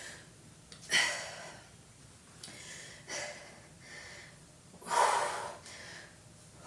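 A woman breathing hard while lifting dumbbells in upright rows: a series of short, forceful exhalations about every second or so, the loudest about five seconds in.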